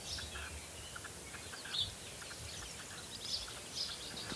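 Several birds chirping in short, scattered calls over faint background noise.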